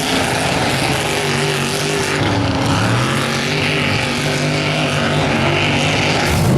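Mud bog truck's engine running hard at high revs, its pitch holding fairly steady with small rises and dips, over a steady hiss.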